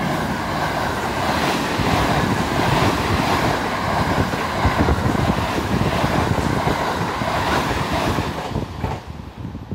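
Limited express Thunderbird electric train passing through the station at speed without stopping: a steady rushing noise of wheels on rail and air along the cars, fading away after about eight and a half seconds as the last car goes by.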